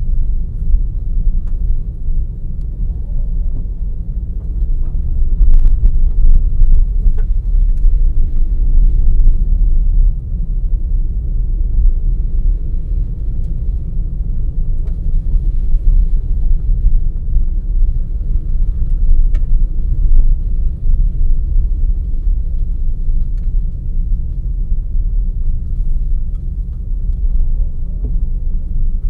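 Car driving along a forest road: a steady low rumble of engine and road noise, with scattered small clicks and knocks.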